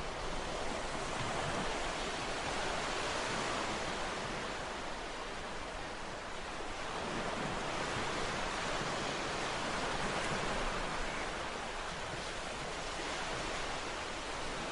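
Ocean waves washing onto a shore in a steady, continuous wash of surf that swells and eases slowly.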